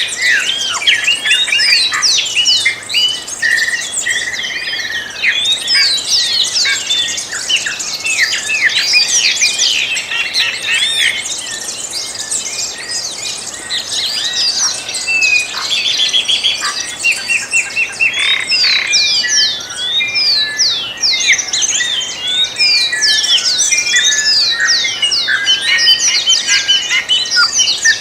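Many birds singing and chirping at once: a dense chorus of overlapping quick sweeping notes with no pause, with a run of rapidly repeated short notes about halfway through.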